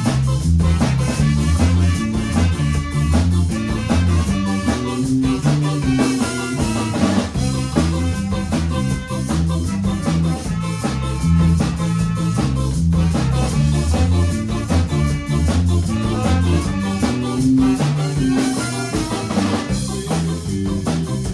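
Band music with electric guitar, bass and a drum kit playing a steady beat.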